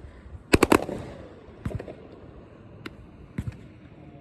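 A 500-gram consumer fireworks cake firing: a quick run of three sharp bangs about half a second in, then scattered single and double cracks through the rest.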